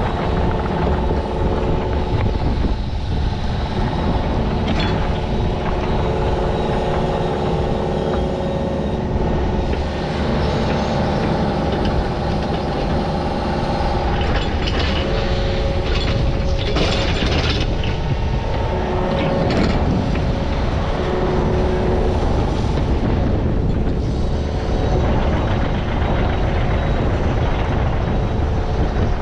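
Diesel digging machine running steadily under load, its engine rumble carrying a steady hydraulic whine, with scrapes and knocks now and then.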